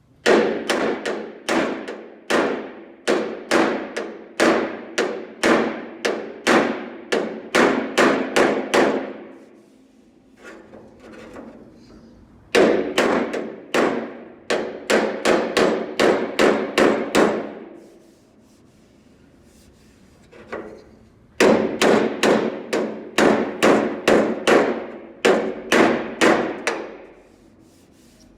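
Body hammer striking the steel edge of a Fiat 1600 Coupé door against a hook-tipped dolly held behind it, in three runs of quick ringing strikes about two a second, with short pauses between. The hammer-and-dolly work is bringing down a swelling left by a dent in the door edge.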